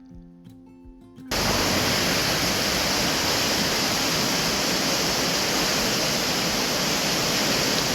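A rain-swollen stream rushing, a loud steady roar of water that cuts in suddenly about a second in.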